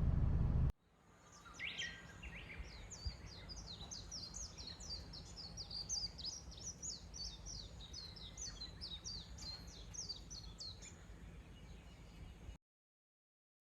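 Small birds chirping: a long run of short, quick high calls, about three or four a second, over a faint steady low rumble. It starts about a second in and cuts off abruptly near the end.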